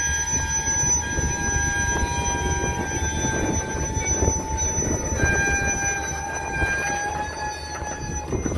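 Freight train tank cars rolling past, a steady rumble of wheels on rail with a continuous high wheel squeal that wavers slightly in pitch.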